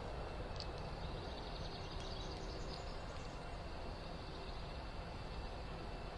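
Steady outdoor background hiss with faint bird chirps: one short high chirp about half a second in and a faint run of high twittering around two to three seconds in.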